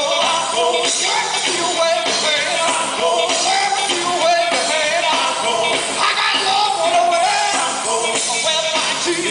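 Gospel group singing live with instrumental backing, a steady beat under the voices.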